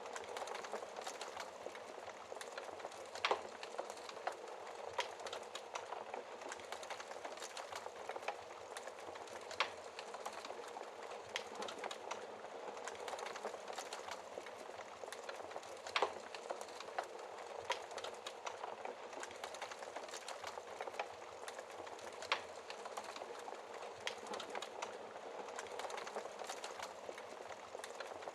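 Wood fire burning in a fireplace: a steady soft crackle with irregular sharp pops, a few louder ones standing out.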